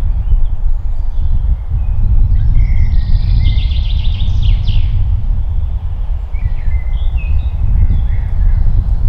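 Songbirds calling, with a rapid trill about three seconds in and scattered chirps near the end, over a loud, steady low rumble.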